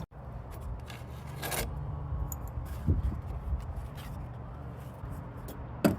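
Scraping and rubbing of hand work on a lawn mower over a steady low hum, with scattered clicks, a knock about three seconds in and a sharp clack near the end.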